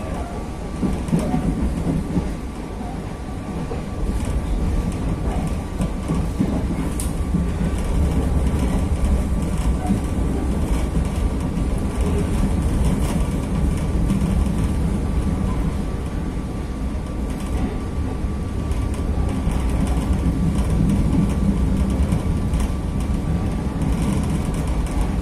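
Passenger train running along the line: a steady low rumble of wheels on rails, with a thin steady whine under it and occasional faint clicks.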